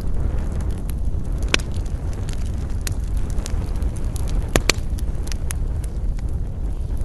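Wood campfire crackling, with irregular sharp pops, two of them louder about a second and a half and four and a half seconds in, over a steady low rumble of wind.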